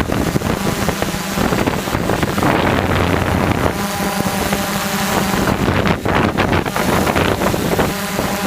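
DJI F450 quadcopter's brushless motors and propellers droning steadily, with wind buffeting the microphone; the pitch of the hum shifts a few times as the throttle changes.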